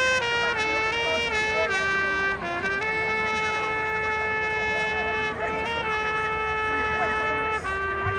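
Marching band horns playing long held notes in unison, the pitch stepping down a little a few times and back up.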